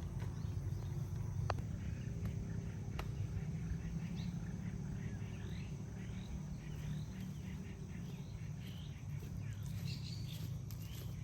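Outdoor ambience: a steady high insect drone over a low rumble, with a bird giving a run of short rising chirps, a couple a second, from about four seconds in. Two sharp clicks come early on.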